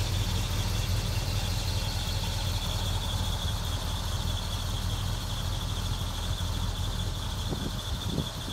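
1965 Pontiac GTO's 389 V8 idling through its factory dual exhaust, a steady low rumble that weakens near the end, with a steady high-pitched whine over it.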